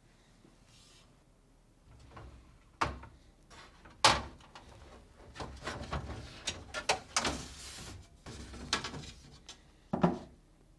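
Glass shelves being lifted out of a Whirlpool refrigerator's plastic shelf supports. A series of knocks, clicks and scrapes of glass and plastic, the sharpest about four seconds in.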